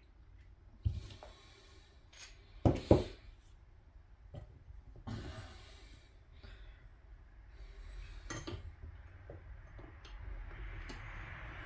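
Small metal outboard-motor parts being handled and fitted: scattered clinks and scrapes, with two sharp metallic knocks close together about three seconds in and another about eight seconds in.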